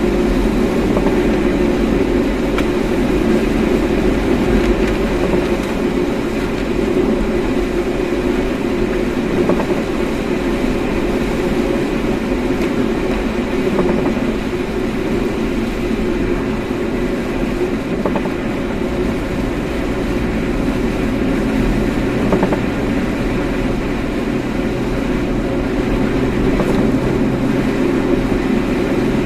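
Steady road rumble and engine hum inside a moving car's cabin.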